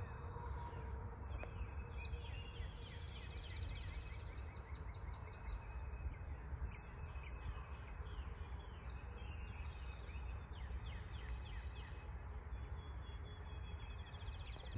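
Several songbirds chirping and trilling in quick repeated phrases over a steady low background rumble.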